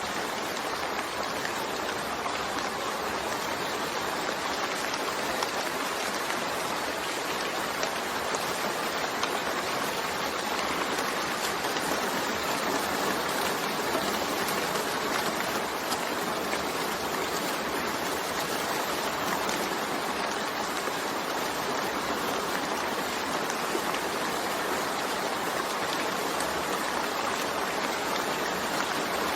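Steady rain: an even hiss with no thunder.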